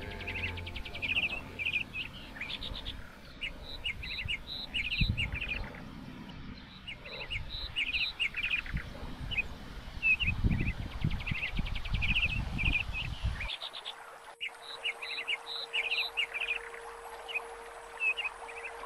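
Songbirds singing, with short chirps and rapid trills repeating throughout. A gusty low rumble runs underneath for the first two-thirds and stops abruptly.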